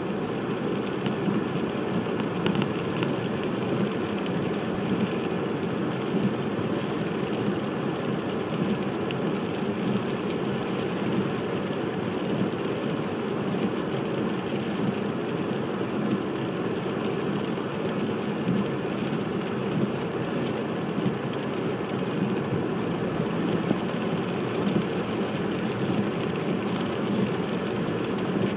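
A car driving on a wet road in the rain: a steady hiss of tyres on wet pavement mixed with rain and road noise.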